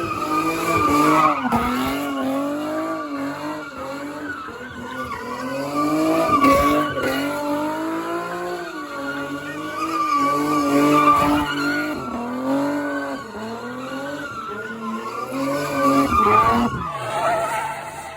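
Car doing donuts: the engine held at high revs while the tyres squeal, the sound swelling and fading about every five seconds as the car circles, four times over.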